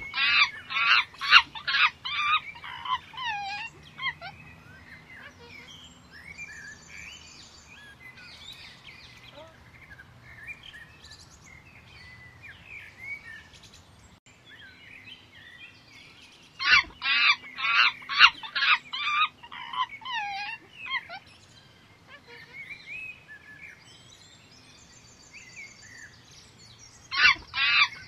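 Loud bursts of rapid, high-pitched chattering calls three times, with fainter bird chirps and whistles in between.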